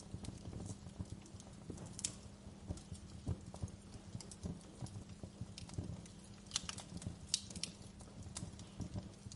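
Wood fire crackling steadily with irregular pops and a few sharper snaps, the loudest about three quarters of the way through, over a faint low hum.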